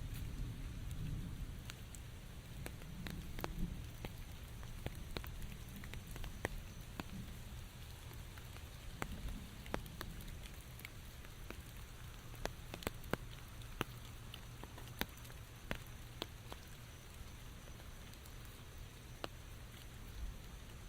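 Steady rain, with many single drops ticking sharply on nearby surfaces over the hiss. A low rumble dies away over the first few seconds.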